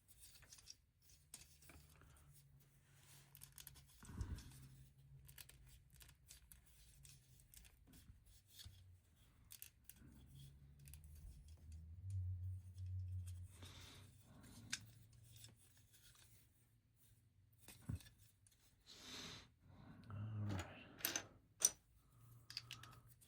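Small plastic LEGO pieces clicking and rattling as they are picked through and pressed together, in scattered short, sharp clicks over a faint low hum.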